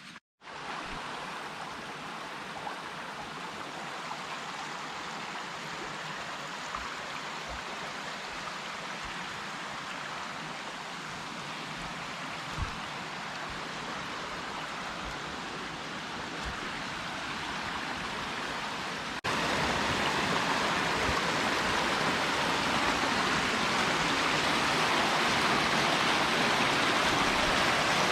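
A forest stream flowing and babbling in a steady rush of water, which turns suddenly louder about two-thirds of the way through.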